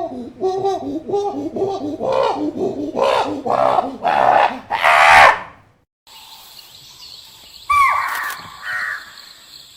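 A chicken clucking in a quick run of calls that grow louder and higher, like a hen's cackle, which stops abruptly a little over halfway through. After that there is quieter outdoor background and one falling bird call.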